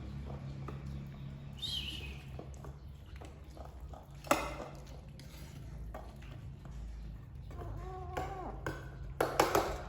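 Kittens mewing: a short high falling cry, then a run of short calls near the end, with a sharp click about four seconds in and a few clinks or clicks just after the calls, like dishes being handled.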